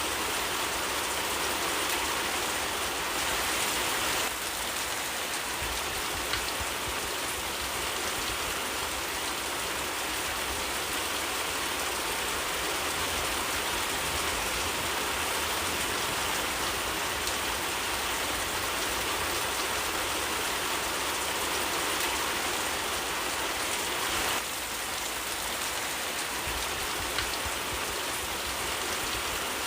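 Steady rainfall, an even hiss of rain with a slight drop in level about four seconds in and again near the end.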